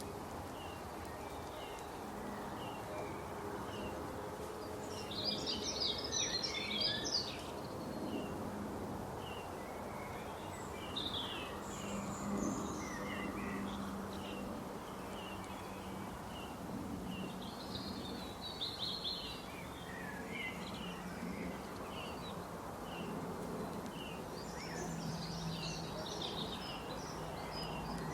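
Small birds calling and singing: one bird repeats a short chirp over and over, and several louder bursts of twittering song break in. A steady background noise with a faint low hum runs underneath.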